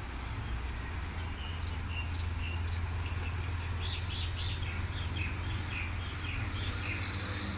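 Small birds chirping in a quick string of short high calls, starting about a second in and running on to near the end, over a steady low rumble.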